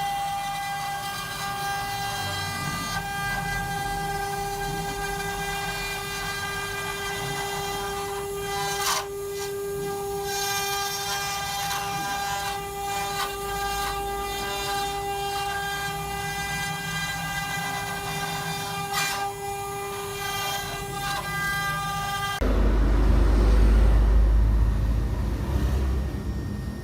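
Four-axis CNC wood-carving machine running, its spindle motors giving a steady high whine with an occasional sharp crack as the bits cut into the wood. Near the end the whine stops abruptly and gives way to a low rumbling noise.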